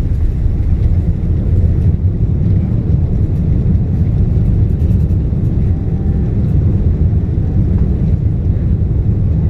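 Steady low rumble of an Airbus A380-800 heard inside the passenger cabin: engine and airflow noise with no single event standing out.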